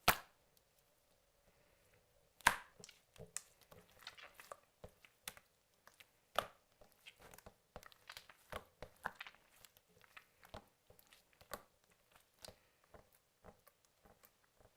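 Slime being squished and poked by hand: an irregular run of small wet clicks and pops, with a sharper pop at the start and another about two and a half seconds in.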